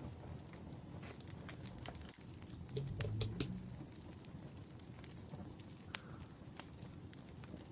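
Wood fire crackling: scattered snaps and pops over a low, steady hiss, with a louder burst of crackling about three seconds in.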